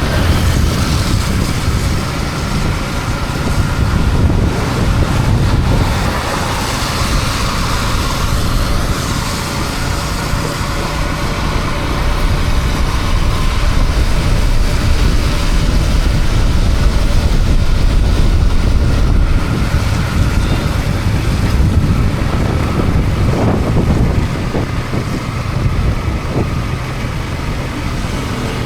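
Yamaha MT-15's single-cylinder engine running steadily under way, heard with wind buffeting the microphone and hiss from wet road.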